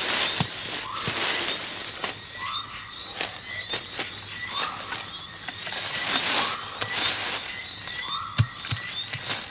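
Small birds chirping in short repeated calls, with bursts of fluttering.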